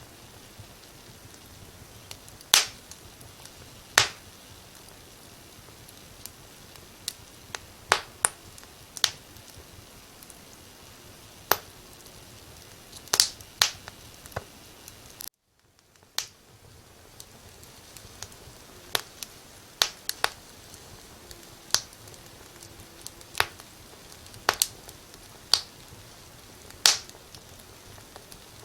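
Wood fire crackling: irregular sharp pops, some close together, over a steady soft hiss. The sound cuts out briefly about halfway through and fades back in.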